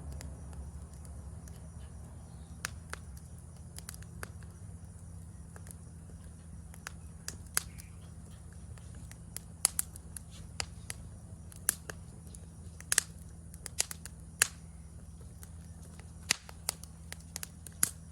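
Wood campfire crackling: irregular sharp pops and snaps, more frequent and louder in the second half, over a steady low hum.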